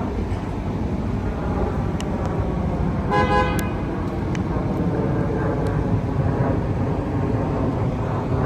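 Steady low rumble of a car driving, the Chrysler's Hemi V8 and road noise, with a short car horn toot about three seconds in.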